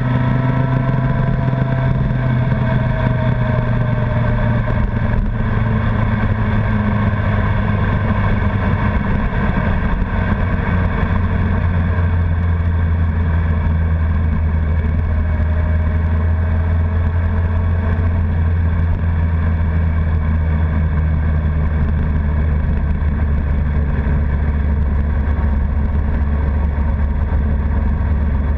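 Honda CBR1100XX Blackbird's inline-four engine running at a steady cruise, heard from onboard while riding, with its note dropping to lower revs about a third of the way through.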